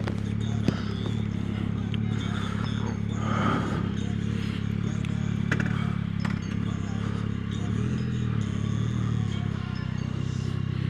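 Yamaha R9 motorcycle's inline-three engine running at a steady cruise while riding, with a brief dip in engine note about eight seconds in.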